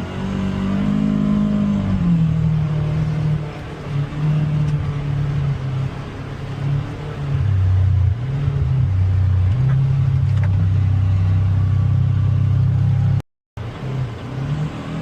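Polaris Xpedition UTV's engine running on a trail, its pitch rising and falling with the throttle, then holding low and steady for several seconds. The sound cuts out for a moment near the end.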